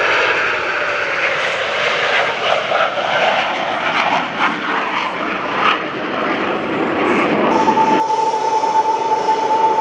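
Jet engines of Blue Angels F/A-18 Super Hornets running loud during a flying display, a dense steady jet noise with swells. About seven and a half seconds in, a steady high whine joins, and just after it the noise changes abruptly.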